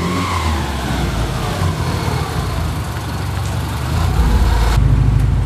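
Subaru Impreza's engine running, a steady low throb that grows louder about four seconds in.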